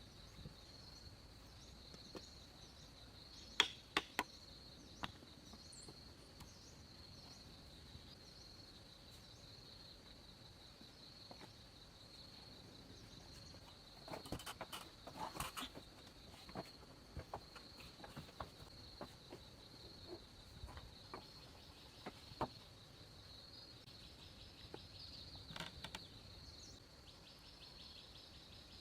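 Insects chirping steadily in a high, pulsing band, with scattered sharp knocks and clicks, bunched together about halfway through.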